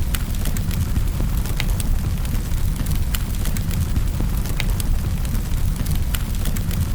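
Wood fire burning in a fireplace: a steady low rumble of flames with sharp crackling pops, the loudest about every second or two.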